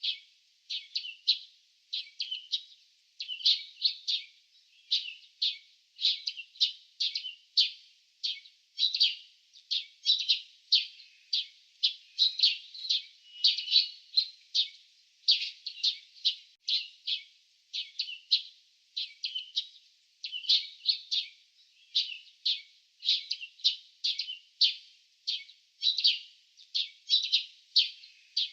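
Small birds chirping: short, high chirps repeating quickly, two or three a second, without a break.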